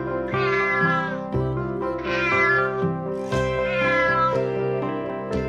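Domestic cat meowing three times, each meow about a second long, rising then falling in pitch, over background music.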